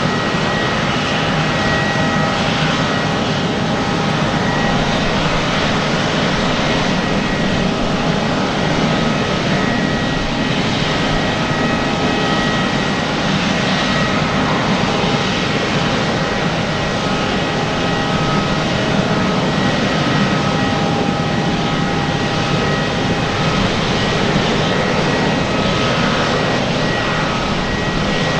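Jet engines of an Airbus A350-900, Rolls-Royce Trent XWB turbofans, running steadily at low power: a continuous rushing noise with several high whining tones that fade in and out.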